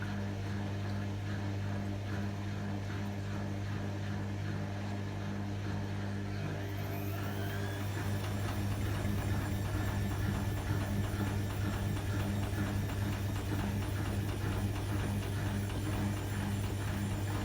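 Hotpoint WMA30 washing machine's motor turning the drum with a steady hum during an unbalanced spin, the load too uneven to reach full spin speed. About seven seconds in, a rising whine as the motor speeds up, and the sound grows a little louder.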